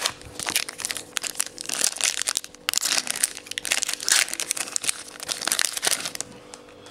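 Plastic trading card pack wrapper crinkling and crackling as it is handled and opened, a run of quick irregular rustles that stops about six seconds in.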